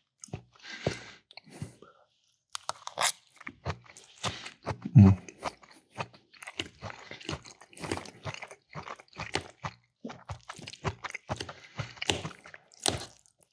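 Close-up chewing and crunching of bacon-fried green beans and onions: wet, irregular crackles and smacks of a mouth eating.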